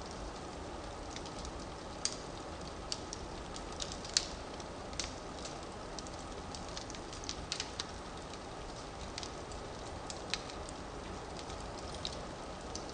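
Firewood burning in a fireplace: a steady low hiss and rumble of the flames with irregular sharp crackles and pops, the loudest about four seconds in.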